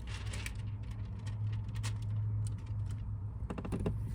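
Faint rustling and light clicks of hands handling window tint film, over a steady low hum.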